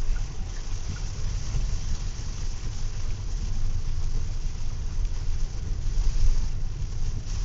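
A car driving on a wet road in the rain, heard as a steady low rumble with an even hiss of tyres and rain above it.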